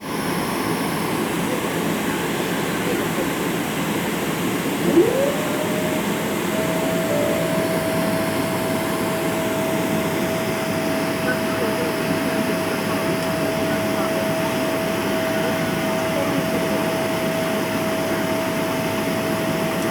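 Airliner cabin noise: a steady rush of air and jet engines, with a steady whine that rises in about five seconds in and holds.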